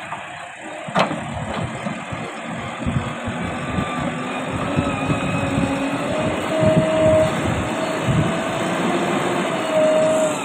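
JCB 3DX backhoe loader's diesel engine running under load, with a wavering whine over it and irregular low knocks, including one sharp knock about a second in.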